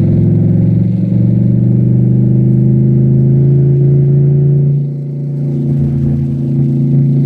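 Cadillac STS-V's supercharged V8 pulling hard, its note climbing steadily for about four and a half seconds. It then drops suddenly as the throttle comes off and runs on more quietly.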